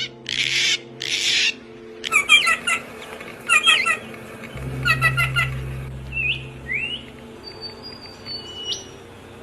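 Birds calling. Two short harsh squawks come in the first second and a half. Then three matching phrases of quick chirps follow about a second and a half apart, and a few short rising whistles and thin high notes come near the end.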